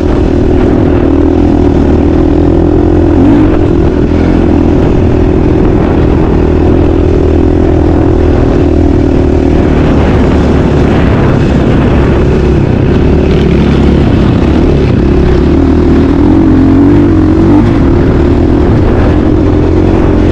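Motocross dirt bike engine running loud and continuous, its pitch wavering up and down with the throttle.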